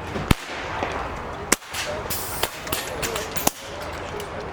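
PCP air rifles firing on a benchrest line: several sharp shots at irregular intervals from different benches, the loudest about a third of a second in.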